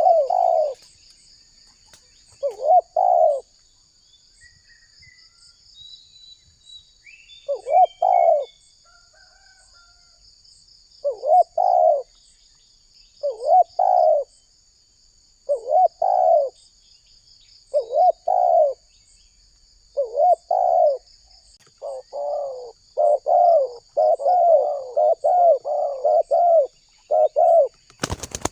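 Spotted dove cooing in repeated phrases of a few coos separated by pauses; from about 22 s in the phrases come almost back to back. A steady high-pitched buzz runs underneath, and a sharp click sounds near the end.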